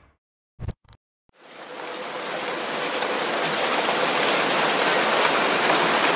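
Heavy rain falling in a steady hiss. It fades in about a second and a half in, after a short silence broken by two brief clicks.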